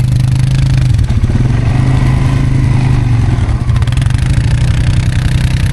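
ATV engine running loud and steady close to the microphone, holding an even pitch as the quad rides along.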